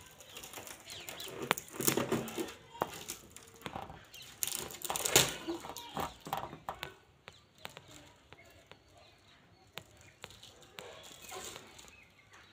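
A rubber balloon being grabbed, rubbed and bitten: irregular rubbery squeaks, scrapes and taps, busiest in the first half and sparser later.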